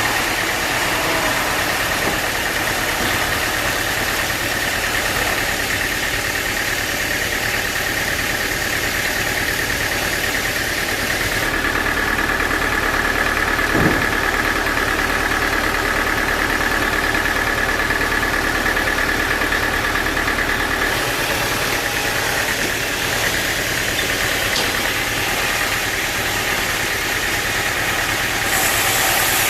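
Sawmill machinery running steadily, with a constant engine-like hum. A high steady whine and a deeper hum come in about a third of the way through and drop away about two-thirds of the way through, with a single short knock in between.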